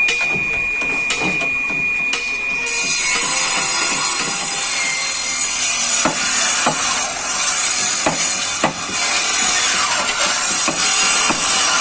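Workshop tool noise: a steady rasping power-tool hiss, joined by repeated hammer blows, often two close together, in the second half.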